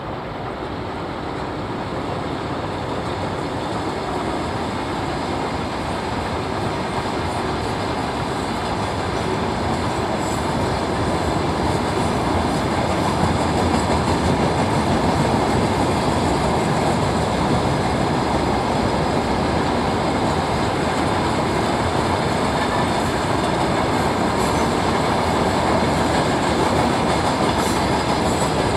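Freight train of open gondola wagons rolling past on the track, a steady rumble of wheels on rail. The sound grows louder as the train approaches over the first half, then holds steady as the wagons pass.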